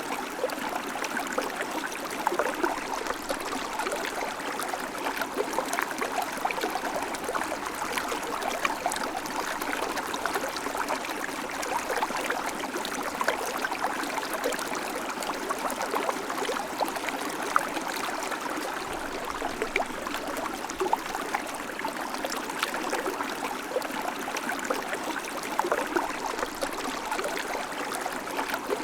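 River water flowing: a steady rush of water with many small splashes and trickles.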